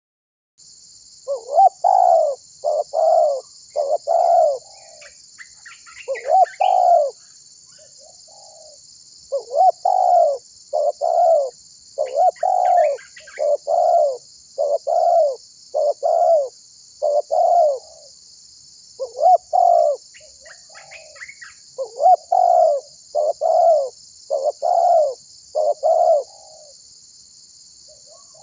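Spotted dove (tekukur) singing: its coo phrase repeated over and over in runs of arching notes, with short pauses between runs. A steady high hiss runs underneath, and faint chirps from small birds come in a few times.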